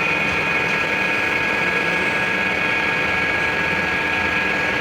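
A workshop machine's electric motor running steadily, with a constant high whine over an even mechanical hum.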